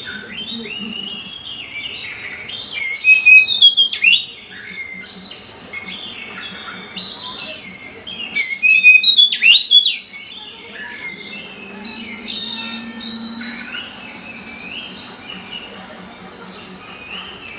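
Songbirds chirping and singing, with two loud bursts of rapid song, one about three seconds in and one about nine seconds in.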